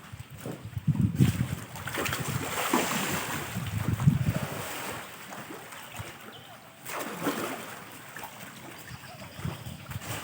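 Water splashing and sloshing in irregular surges, loudest about a second in and again about four seconds in, with wind buffeting the microphone.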